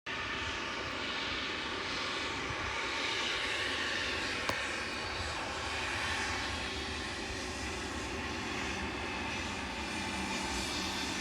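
Airplane engine noise, steady throughout, with a single sharp click about four and a half seconds in.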